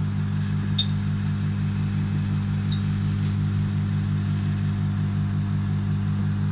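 Microwave oven running with a loud, steady low hum, broken by a few sharp snaps about a second in and near three seconds.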